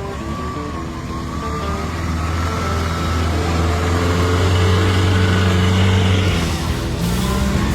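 Toyota Land Cruiser's engine running as the four-wheel drive is driven along a track, growing louder over the first few seconds; its note changes abruptly about six and a half seconds in and then climbs near the end.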